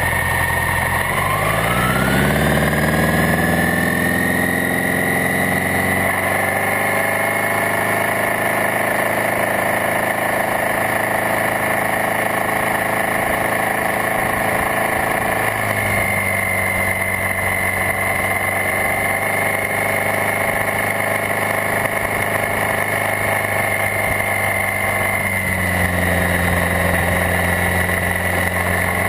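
Maverick flying car's engine running right beside the camera. It rises in pitch over a few seconds as the car pulls away, with a high whine rising alongside, then runs steadily, with small changes in pitch about halfway through and again near the end.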